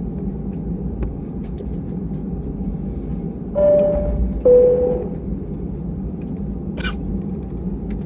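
Steady low rumble in an Airbus A320 cabin. About three and a half seconds in, a two-tone high-low chime sounds: the cabin PA chime that comes before a crew announcement. A short knock follows near the end.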